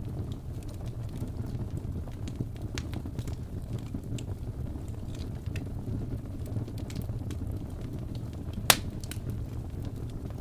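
Wood fire burning with a steady low rumble and scattered crackles and pops, one loud sharp pop a little before the end.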